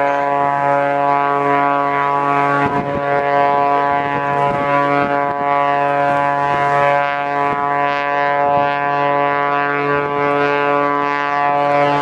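A loud, steady drone holding one unchanging pitch with many overtones, with gusts of wind buffeting the microphone.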